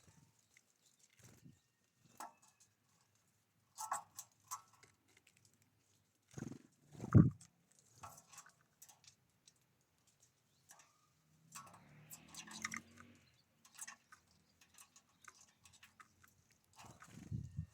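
Birds at a feeder: scattered pecking taps and clicks with soft knocks, a louder low thump about seven seconds in, and a brief rustle around twelve seconds.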